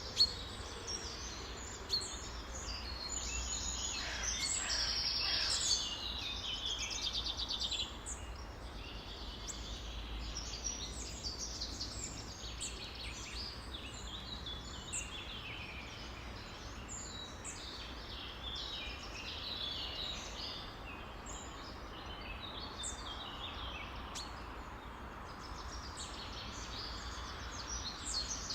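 Many wild birds chirping and singing over one another, with a louder rapid trill about four to six seconds in, over a faint steady low rumble.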